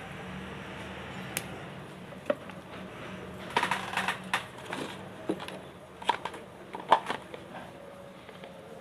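Insulating tape being pulled and wrapped around spliced wire joints: scattered sharp clicks, with crinkly bursts of handling noise about three and a half seconds in and again near the seven-second mark.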